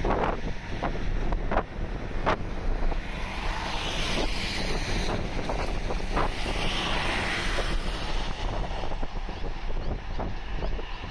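Electric suburban train running over the junction below, its wheels clacking over rail joints and points several times in the first few seconds, with a few scattered clacks after. Wind rumbles steadily on the microphone throughout.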